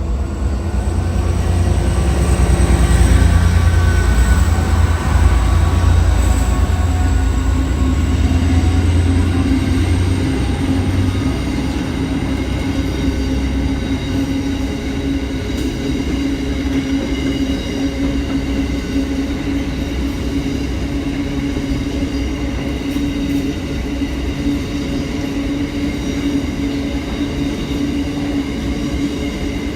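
A train rolling past on steel rails: a heavy low rumble for about the first ten seconds, then a steady run of wheel-on-rail noise with several sustained high ringing tones, typical of wheels squealing on the rails.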